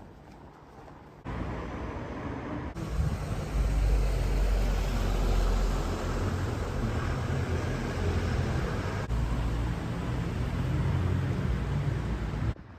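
Motor traffic: a steady low engine rumble with road noise, changing abruptly several times between cut-together segments.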